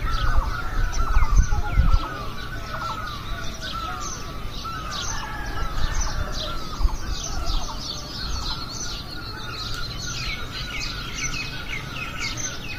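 Several wild birds chirping and singing together, with many short, quick falling notes overlapping throughout. A low rumble runs under them for the first two seconds.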